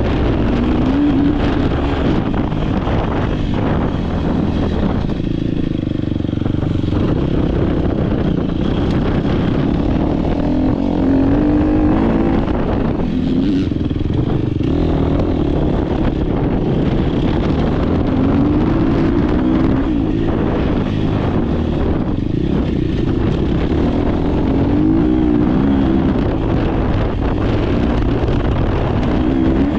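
Dirt bike engine under race load, revving up and falling back again and again as the rider works the throttle and gears.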